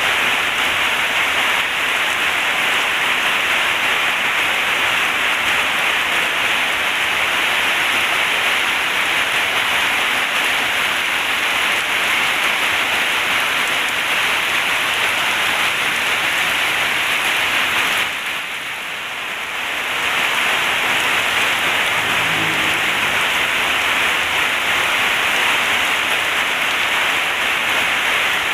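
Heavy rain falling steadily on a zinc (tin) roof, dropping away briefly for about two seconds about two-thirds of the way through before resuming.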